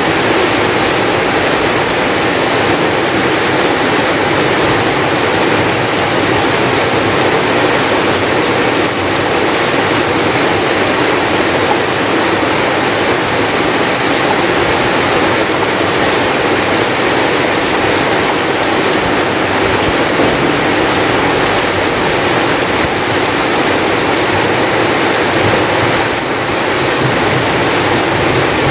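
Heavy rain pouring down steadily, an even, unbroken hiss of rainfall.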